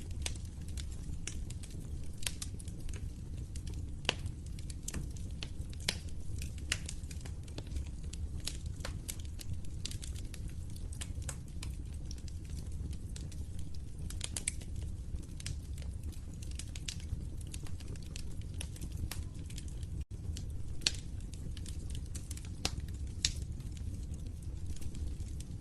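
Wood fire burning in a fireplace: a steady low rumble of flames with frequent irregular crackles and sharp pops. The sound drops out for a split second about twenty seconds in.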